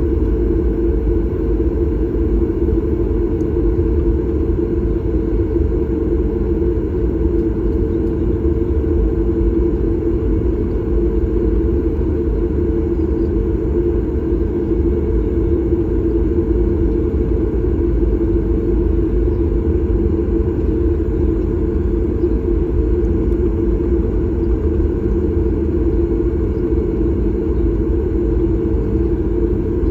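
Steady cabin noise of a Boeing 737 MAX 8: an even low rumble of engines and airflow with a constant drone, unchanging throughout.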